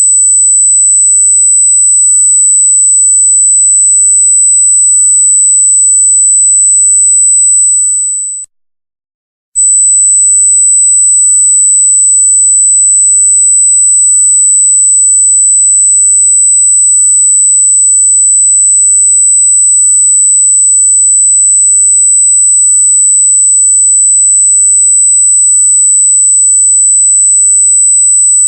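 Loud, steady, very high-pitched electronic sine tone. It dips out for about a second a third of the way through, then resumes unchanged.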